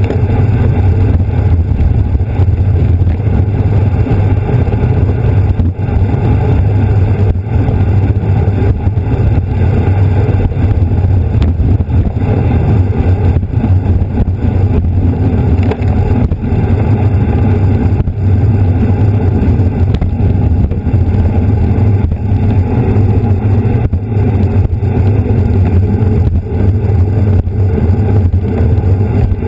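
Wind buffeting the microphone of a camera on a moving racing bicycle: a steady, loud rumble.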